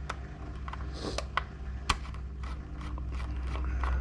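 Screwdriver with a Torx bit turning out small screws from an old computer's metal case, a string of irregular light clicks and ticks over a low steady hum.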